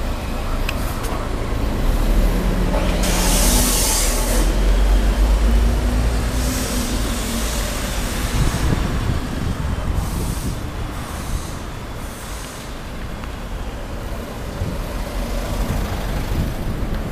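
Steady traffic noise with a low rumble of wind on the microphone, and a brief loud hiss about three seconds in.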